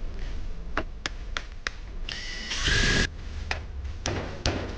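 Electric drill run in a short burst of about a second, about two seconds in, its motor whining up and then rushing. Handling clicks come before and after. The drill's chuck is judged faulty.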